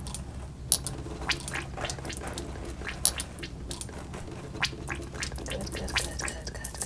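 Fingers working hair oil into thick hair and scalp close to the microphone: irregular crackles and clicks over a steady low hum.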